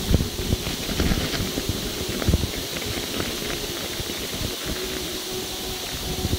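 Bicycle riding over ice: tyre rumble with irregular knocks and rattles from the bike over bumps, and wind on the microphone.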